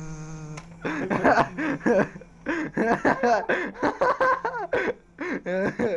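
Young men snickering and laughing in short, choppy bursts, after a steady held hum that stops about half a second in.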